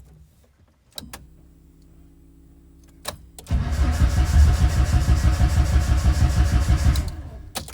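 Starting a 36-year-old French car: a click and a faint steady hum as the ignition is switched on, a second click, then the engine cranking and starting, running loudly for about three and a half seconds before cutting off abruptly.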